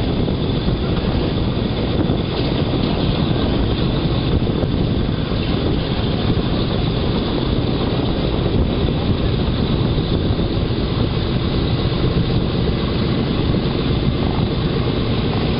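Boeing B-17's Wright R-1820 Cyclone radial engines running steadily with their propellers turning, a loud even rumble.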